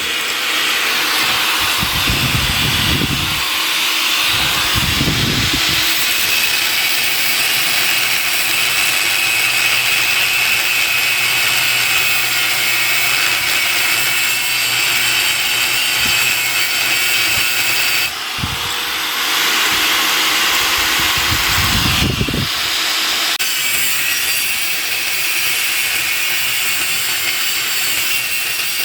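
A power tool grinding or cutting steel with a steady, high-pitched noise. It stops briefly twice in the second half, with a few low knocks from handling the work.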